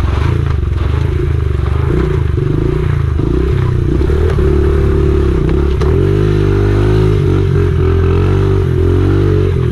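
Honda XR70R pit bike's small four-stroke single-cylinder engine running under throttle as it is ridden, its engine speed rising and falling, then holding a steadier, higher pitch from about six seconds in.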